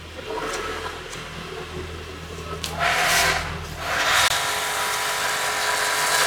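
High-pressure washer: a low motor hum, then about three seconds in the spray hisses in two short bursts before running steadily.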